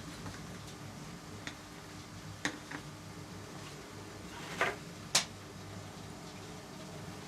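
A handful of short clicks and taps from small hard objects being handled, with a rattly cluster and then the sharpest click a little past the middle, over a steady low hum.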